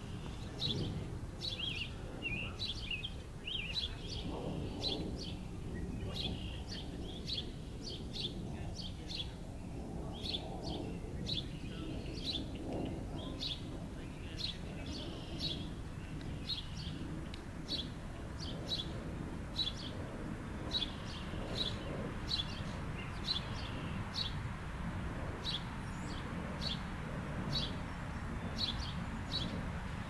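Small songbirds chirping, a steady run of short high chirps, more than one a second, over a low steady background rumble.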